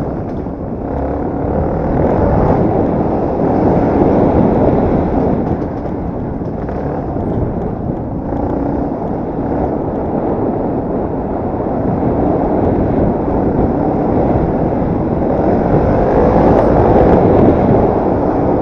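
Yamaha TT250R's single-cylinder four-stroke engine running under way, heard from on board mixed with wind noise on the microphone. It gets louder about two to four seconds in and again near the end.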